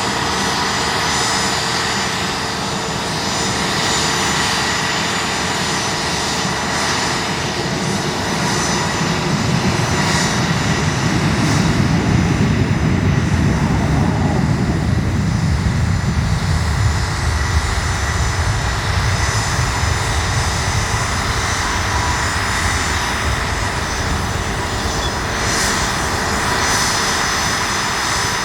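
Airbus A320 jet engines running with a steady high whine over a rumble. The rumble swells to its loudest about halfway through, then drops in pitch and eases as the airliner passes.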